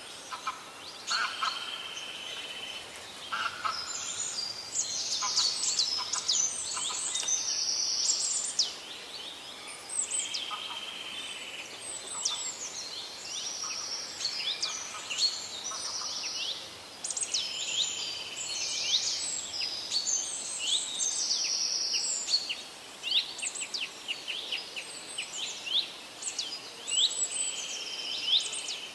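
Several parrots calling over one another: short, sharp, high-pitched chirps mixed with harsh, buzzy screeches.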